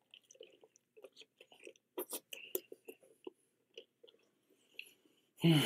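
A person chewing a mouthful of a gravy-dipped KFC Double Down fried chicken sandwich: a run of short, wet smacks and clicks of lips and mouth. A louder mouth sound comes near the end.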